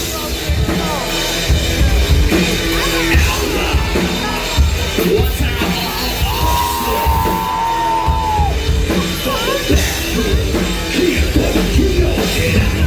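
Loud live country-rap band music with a heavy beat, heard through a crowd-level recording in a large room, with voices yelling and singing over it, including one long held vocal note in the middle.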